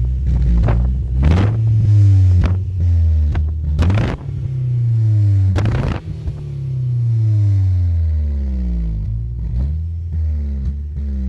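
BMW car engine being revved hard again and again, the pitch climbing and dropping, with a long slow fall in revs past the middle. Several sharp bangs ring out over the revving, the loudest two in the middle.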